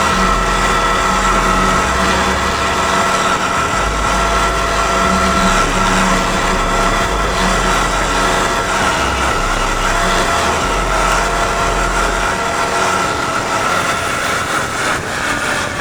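Dirt bike engine running steadily at high revs under hard throttle, with wind rumbling on the microphone; the engine note drops near the end as the bike slows.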